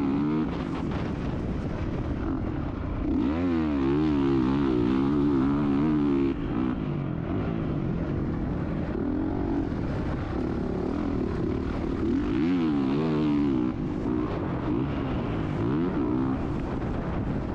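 Motocross bike engine revving hard and easing off again and again as it is ridden around a dirt track, its pitch climbing and dropping with throttle and gear changes.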